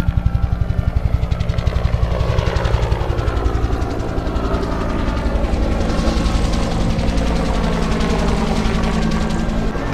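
Helicopter passing overhead, its rotor beating in fast, even pulses; the pitch falls as it goes by and the sound settles into a steadier drone.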